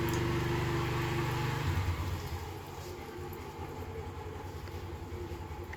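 Vehicle engine running with a steady low hum, which drops in level about two seconds in and goes on more quietly.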